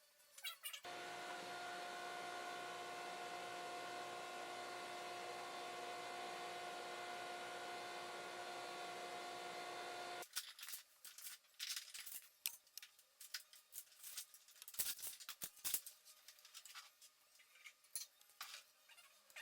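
A steady hum of several even tones over a hiss, starting abruptly about a second in and cutting off abruptly about ten seconds later. Scattered light clicks and rattles follow.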